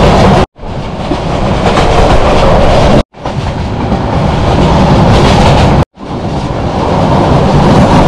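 Passenger train running fast, the loud rumble of its wheels on the rails heard through an open carriage door. The sound breaks off into a brief silence three times, about every two and a half to three seconds, and comes straight back each time.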